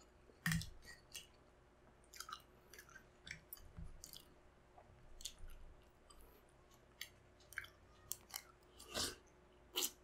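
Close-miked chewing and wet mouth smacks of someone eating balut with chopped chilies, with scattered short clicks and taps of a metal spoon. The loudest click comes about half a second in.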